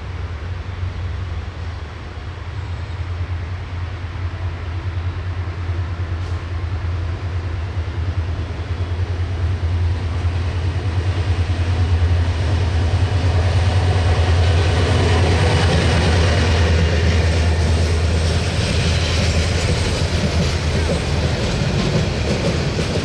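A train's engine holds a steady low drone while its wheels and carriages rattle on the track, the rattle growing louder through the second half as the drone fades near the end.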